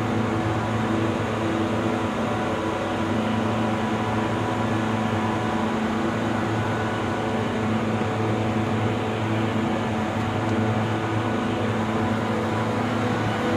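Precision air-conditioning equipment running: a steady machine hum with a low drone and a few steady tones over fan noise, unchanging throughout.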